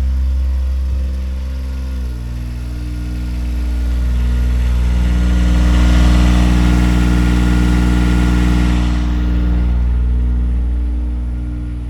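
Engine of an engine-driven welder running steadily. Its speed steps down about two seconds in, and a hiss swells from about four to nine seconds in.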